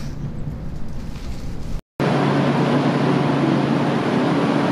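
Steady running hum of a Shinkansen cabin at speed. About two seconds in, after a brief drop to silence at a cut, a louder, steady hiss and hum of a JR West 221 series electric train standing at the station platform.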